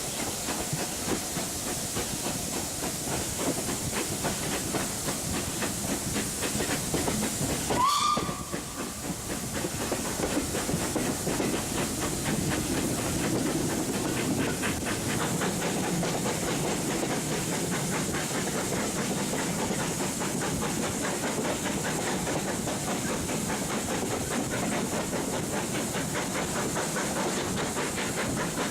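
A steam-hauled train running, heard from an open carriage window: a steady rush of wind and wheel noise with a fine rhythm of rail joints. About eight seconds in a short whistle sounds, rising in pitch.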